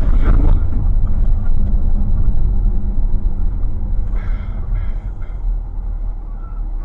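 Low, steady rumble of a moving car, engine and road noise heard from inside the cabin, easing slightly towards the end. Faint voices come through briefly a little after four seconds.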